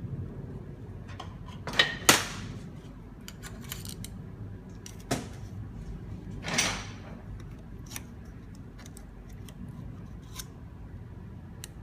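Metal clicks and scrapes of a retaining clip being worked into place inside a Hydramatic automatic gearbox while the clutch return springs are held compressed. Two sharp, loud clicks come about two seconds in, another about five seconds in, and a longer scrape a little later, among lighter ticks.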